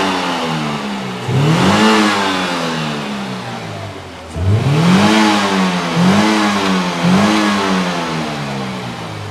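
Car engine being revved in repeated throttle blips, about five times, each rise in pitch followed by a slow fall back toward idle.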